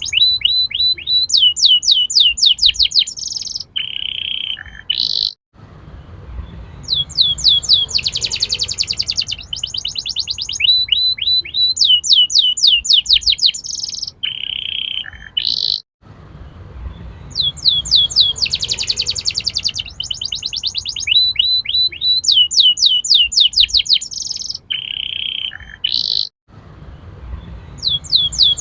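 Domestic canary singing vigorously, the song of a canary in full voice ('gacor'): fast trills of rapidly repeated notes alternating with sweeping whistled notes. The same song phrase repeats about every ten seconds after a brief break, as in a looped recording.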